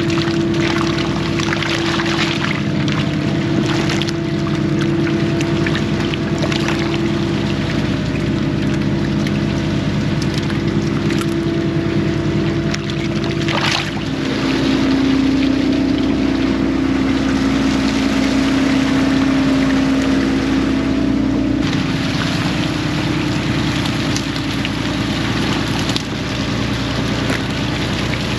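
Fishing boat engine running steadily with water splashing and rushing around the hull; the engine note rises about halfway through and drops back near the end.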